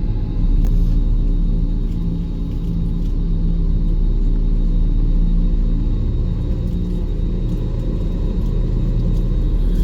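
Airbus A320 cabin noise heard from a passenger seat: a steady, loud low rumble from the jet engines and airframe, with a few steady low hums.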